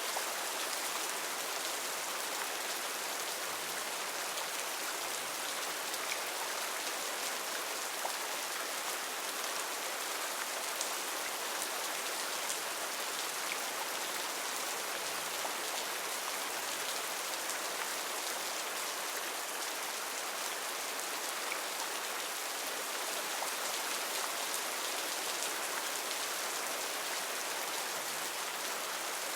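Heavy rain falling steadily on forest foliage: a dense, even hiss of rain with countless individual drops ticking.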